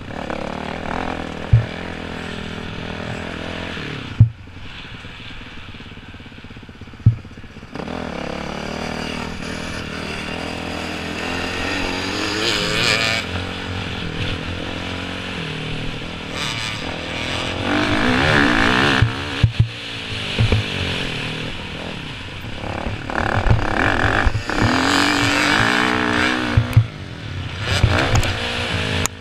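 Motocross dirt bikes riding on a track, their engines revving up and down as they pass, loudest twice in the second half. Three sharp thumps come in the first several seconds.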